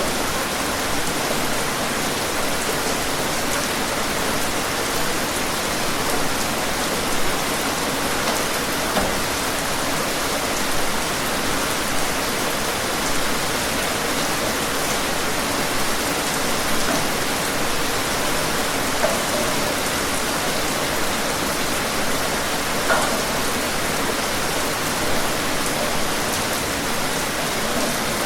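Steady rain falling on a surface, a dense even hiss with scattered louder drop hits every second or two.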